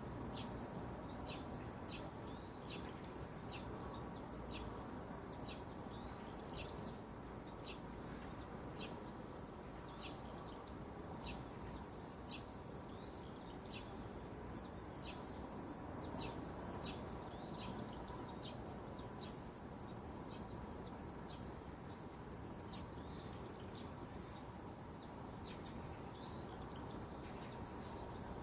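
A bird repeating a short, high chirp over and over, about once or twice a second, over a steady low background rumble.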